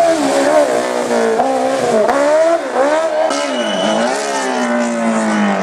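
Racing car engine driven hard, its pitch climbing and dropping again and again with throttle and gear changes, then sinking slowly as it comes off the power near the end.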